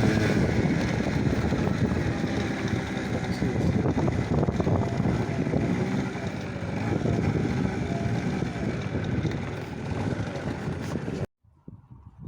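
A motor running steadily with some wind on the microphone, cutting off suddenly near the end.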